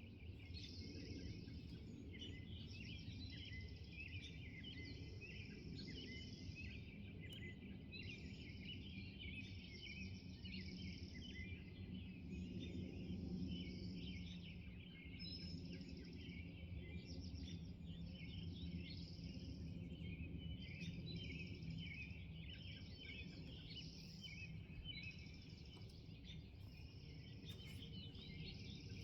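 Morning chorus of several songbirds, overlapping chirps and song phrases going on continuously, over a low steady rumble.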